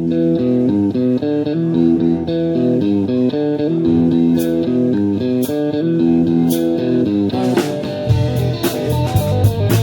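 Rock band playing the instrumental intro of a song: a repeating guitar riff, with a few sharp hits in the middle, and about eight seconds in a heavier low end and dense hits come in as the full band joins.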